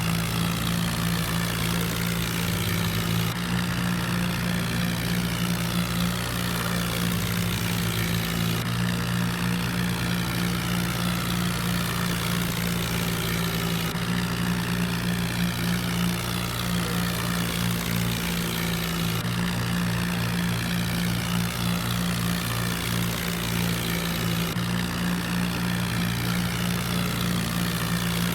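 Tractor diesel engine running steadily with a loud, even drone.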